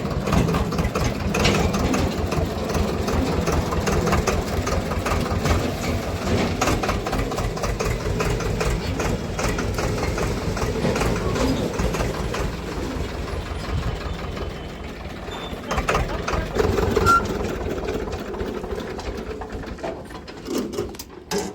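Swaraj tractor's diesel engine running steadily with a rapid, even chugging. It eases off slightly about two-thirds of the way through and drops away near the end.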